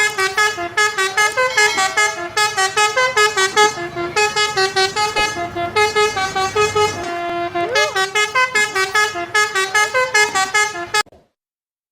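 Multi-tone "telolet" bus horn playing a quick tune of short notes that step up and down in pitch, stopping about a second before the end.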